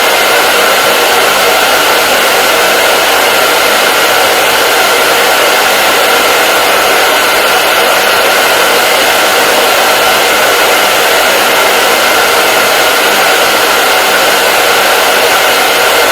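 Hair dryer running steadily, a constant airy rush with a faint whine from its fan motor, unchanging throughout.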